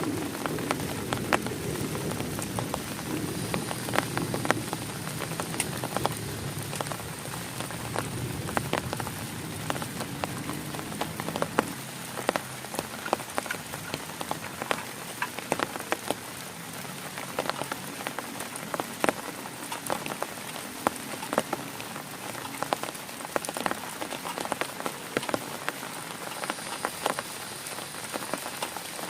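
Heavy rain falling on a tent: a steady hiss full of sharp individual drop hits. A low rumble underneath dies away over the first ten seconds or so.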